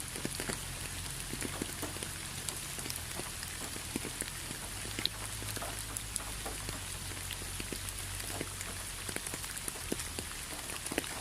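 Rain falling steadily, an even hiss with many separate drops ticking on a surface.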